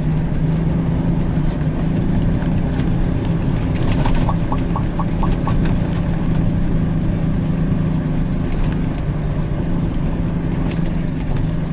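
Heavy truck's diesel engine idling steadily. About four seconds in, a quick run of six short beeps.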